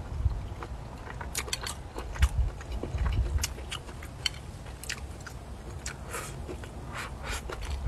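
Close-miked chewing of a mouthful of food, with many small sharp clicks throughout.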